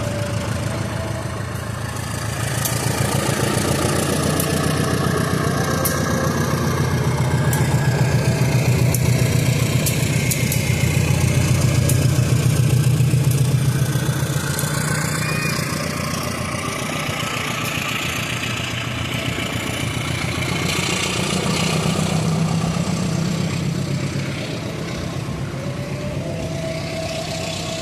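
Diesel locomotive engine running with a deep drone that swells loud over the first half, eases, and swells again briefly later, with a few sharp clicks early on.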